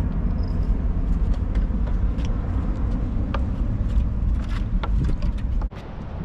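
Low rumbling wind noise on the microphone with scattered small clicks and knocks, cutting off abruptly near the end.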